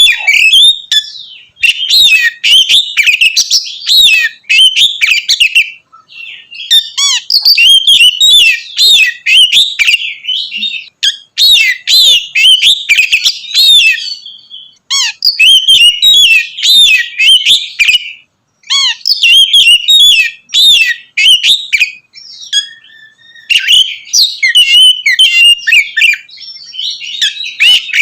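Oriental magpie-robin (kacer) singing loudly in fast runs of sharp whistled and chattering notes. The phrases last a few seconds each, with brief pauses between them.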